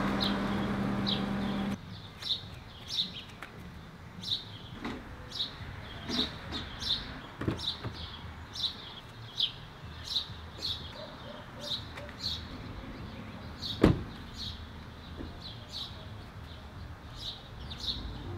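A bird chirping over and over, a short high chirp about twice a second, with scattered knocks and thumps from a mattress being loaded into the back of a car. A sharp knock about 14 seconds in is the loudest sound.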